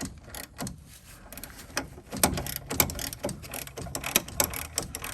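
Hand ratchet clicking as it tightens the top nut of a sway bar link, the clicks sparse at first and then coming quickly and unevenly from about a second in.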